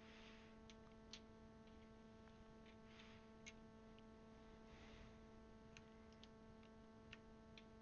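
Faint, scattered clicks of plastic keycaps being handled and pushed onto a mechanical keyboard's switches, about half a dozen in all, over a steady low electrical hum.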